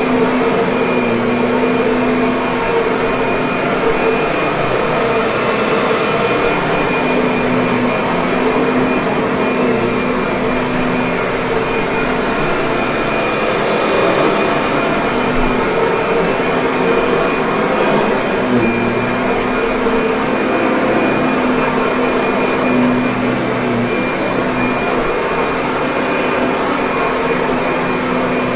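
Kirby upright vacuum cleaner running steadily: a constant motor hum and airflow rush with a steady whine, varying only slightly in level.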